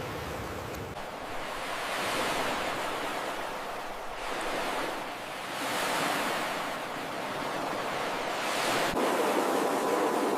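Ocean surf breaking on a beach, the rush of water swelling and ebbing three times.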